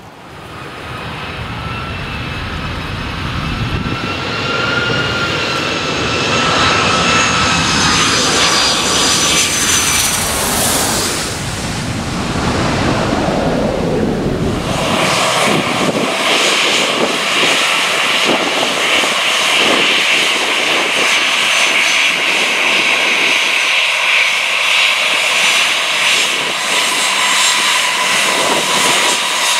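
Jet airliner engines growing louder as the plane passes close, the whine falling slightly in pitch about ten seconds in. The deep rumble then drops away about fifteen seconds in, leaving a steady high engine whine.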